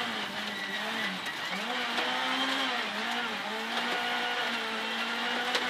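Ford Fiesta R2 rally car's four-cylinder engine heard from inside the cabin, its revs dipping and climbing again several times as the car brakes and accelerates through tight corners in low gear. Under it runs a steady hiss of tyre and gravel noise.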